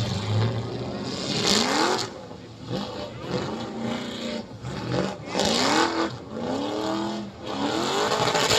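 Engines revving hard again and again, each rev climbing in pitch and then holding briefly, with loud surges of engine and exhaust noise.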